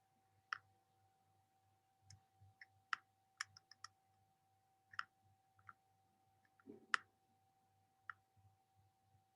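Faint, scattered clicks and taps at irregular intervals over a faint steady hum.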